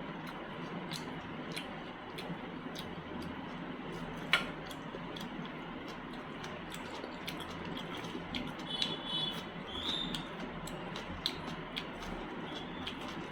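Close-up eating sounds: scattered wet clicks and smacks of chewing a chicken masala and mutton liver gravy meal eaten by hand, over a steady background hiss. One sharper click comes about four seconds in, and a brief high squeak around nine seconds.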